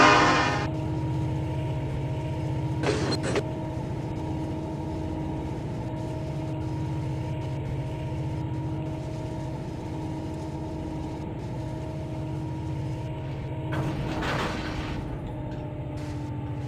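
A diesel locomotive's horn cuts off just after the start. The locomotive's engine then runs with a steady low pulsing rumble and a few steady tones, with two brief louder swells of noise.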